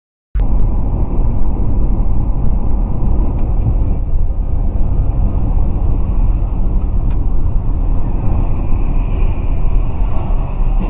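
Moving vehicle's engine and road noise, a loud, steady low rumble that starts abruptly just after the start, with a faint tick about seven seconds in.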